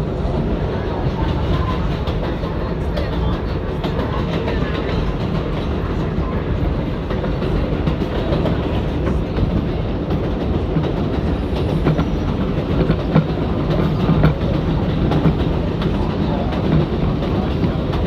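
R188 subway train running at speed, heard from inside the car: a steady rumble with the clickety-clack of wheels over rail joints and a few sharper knocks past the middle.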